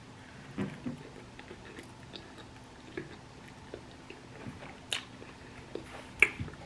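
Close-miked chewing and wet mouth sounds of a person eating tofu enchiladas, with scattered small clicks and a sharper click a little after six seconds.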